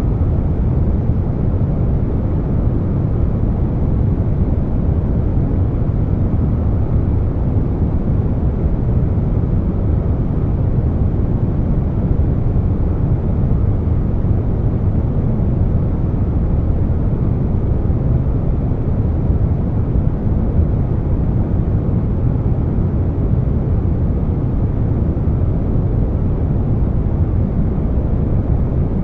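Air conditioner noise blended with brown noise: a steady, even hiss that is heaviest in the bass, with no changes.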